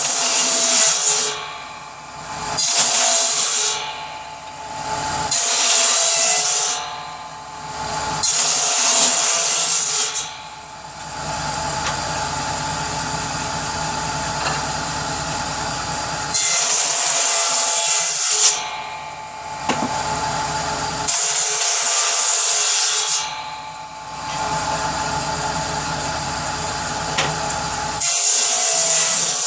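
A power saw running steadily and cutting through pieces of kindling wood in repeated short cuts. Each cut is a louder, hissing rasp lasting one to two seconds, seven in all, with a longer pause in the middle.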